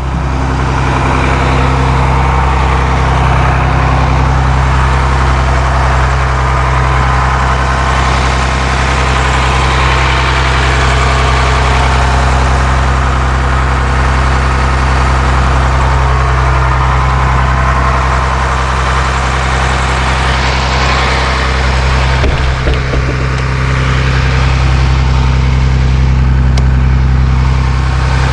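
Cummins ISC 8.3-litre turbo diesel idling steadily and loudly in the rear engine compartment of a Blue Bird All American school bus. A few brief knocks come about three-quarters of the way through.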